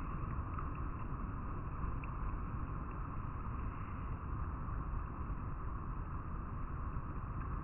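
River water flowing over rocks: a steady, even rushing and rippling.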